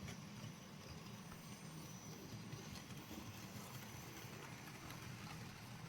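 Faint running of an OO gauge model train on its track: a low motor hum with light, irregular clicking of wheels over the rail.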